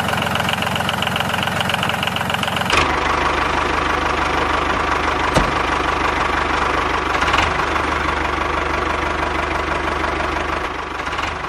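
An engine-like motor runs steadily with a fine, even knocking rhythm. Its sound changes abruptly a little under three seconds in, and two short clicks come later.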